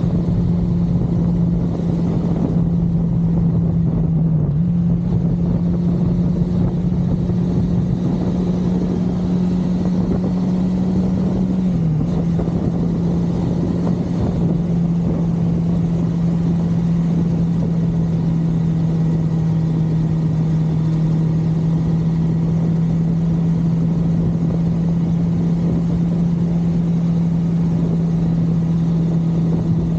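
1982 Suzuki GS550L motorcycle's air-cooled inline-four engine running at a steady cruise on the highway, with wind and road rush. The engine note dips briefly about four seconds in, then drops slightly again about twelve seconds in and holds steady after that.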